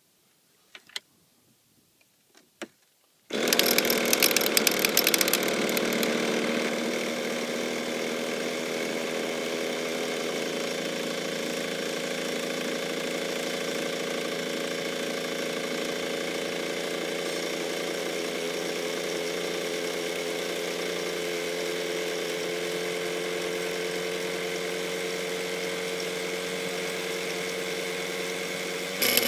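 Electric starter cranking a cold Hyper 55 two-stroke nitro glow engine, a steady high-pitched whir starting about three seconds in, its speed creeping up slightly as the cold engine warms under the long cranking. Near the end the sound jumps louder as the engine lights.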